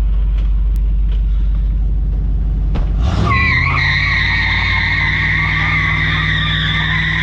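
1991 Pontiac Firebird's V8 idling, then revving about three seconds in as the rear tyres break loose in a burnout and squeal steadily.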